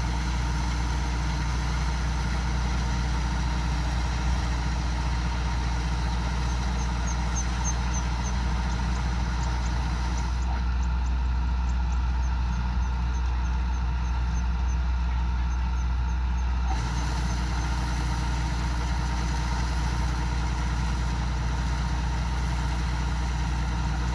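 Kubota DC-105X combine harvester running steadily with a constant low engine drone. Its higher hiss dulls for about six seconds midway.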